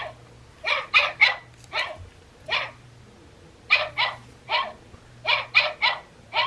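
Wild Republic pug plush sound toy playing a recorded dog bark through its small speaker: a run of short barks, mostly in quick groups of two or three.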